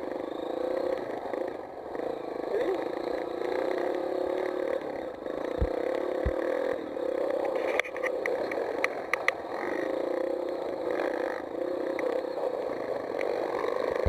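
Mini motocross bike engine running steadily, its pitch wavering a little with the throttle, with a few sharp clicks a little past the middle.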